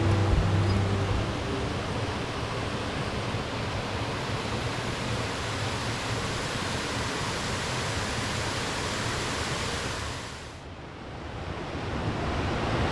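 Steady rushing of water from a waterfall on a beck, with the last notes of acoustic guitar music fading out at the start. A little after ten seconds the rush turns duller and quieter for a moment, then builds up again.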